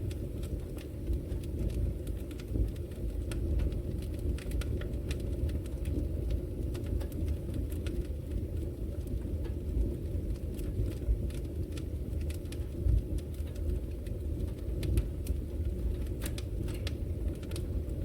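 Wood fire crackling in a brick fireplace: a steady low rumble under irregular sharp crackles and pops, a few of them louder.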